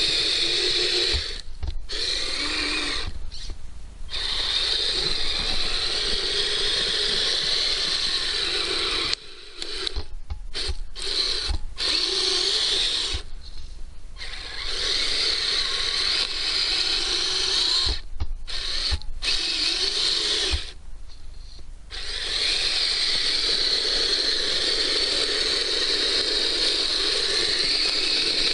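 Electric motor and gear train of a Kyosho Blizzard radio-controlled snowcat whining as it drives, cutting out in several brief pauses before starting up again.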